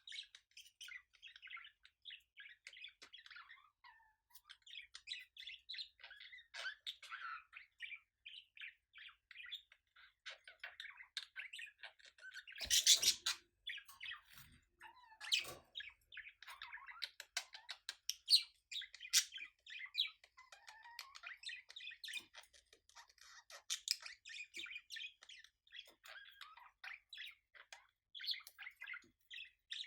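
Budgerigars chattering and warbling, a continuous stream of quick chirps and squeaks, the kind of chatter the uploader offers as budgie mating sounds. One louder, harsher burst comes about thirteen seconds in.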